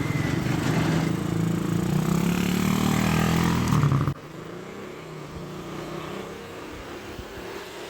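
Motor vehicle engine running loud and close, revving up with rising pitch. It cuts off abruptly about four seconds in, leaving quieter background road traffic.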